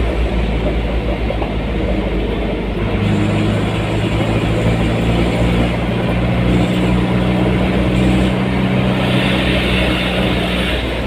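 Road vehicle's engine running while driving, with road rumble. The engine note rises about three seconds in, holds at the higher pitch, then drops back near the end.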